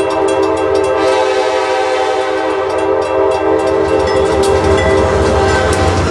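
Train horn sounding one long, steady chord that fades near the end, over rail clicks and a low rumble that grows in the second half as the train comes by.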